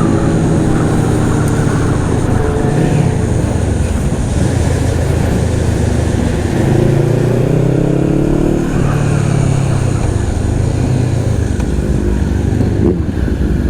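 Sport motorcycle engines running at road speed, with wind rush, rising in pitch around the middle as a bike accelerates.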